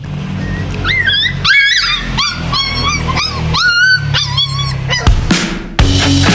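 Aspin puppy whining and yipping: a string of short, high-pitched whines that rise and fall, about eight of them over four seconds. Background music plays underneath and grows louder near the end.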